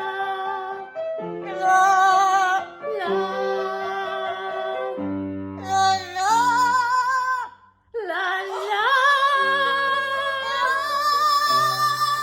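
Yellow-naped Amazon parrot singing long, wavering operatic-style notes over held piano chords, with a short break about two-thirds of the way through followed by a rising swoop into the next notes.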